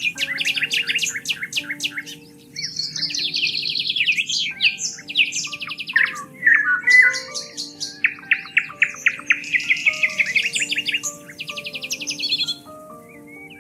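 Several birds singing and calling at once, with rapid chirps, fast trills and repeated notes overlapping. Soft held music notes play underneath.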